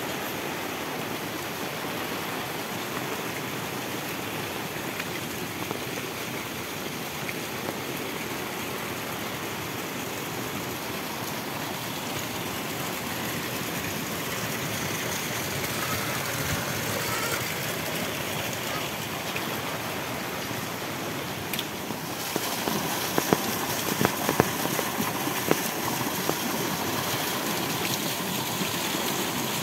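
Heavy tropical rain falling steadily as a dense, even hiss. About two-thirds of the way through, the sound changes and sharp ticks of drops landing close by stand out for a few seconds.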